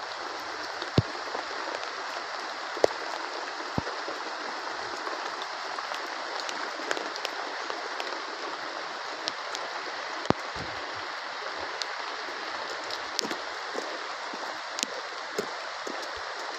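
Steady heavy rain falling, with scattered sharper drops ticking and knocking on a surface throughout.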